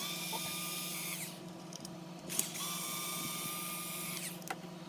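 Cordless power screwdriver running in two bursts, backing out two screws from an RC car chassis; the first run lasts about a second, the second about two seconds.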